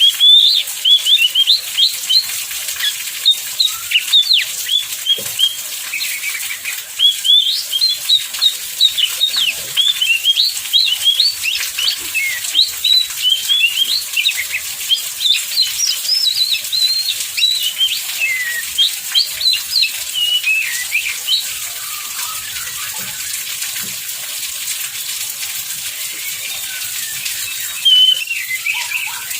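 Oriental magpie-robin singing a fast, varied stream of whistles and chirps over a steady hiss of heavy rain. The song thins out after about twenty seconds and picks up again near the end.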